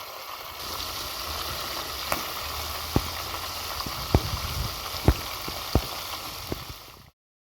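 Food frying in a pan, a steady sizzle with sharp crackles now and then, cutting off abruptly near the end.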